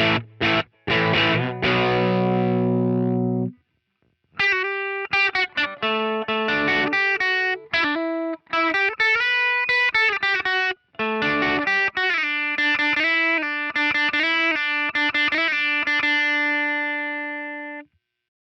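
Electric guitar played through a JHS Colour Box into a cranked Vox AC30 amp sim, with a mildly overdriven tone. A strummed chord rings and stops about three and a half seconds in. After a short gap come single-note melodic phrases, and the last held note rings for a few seconds before it stops near the end.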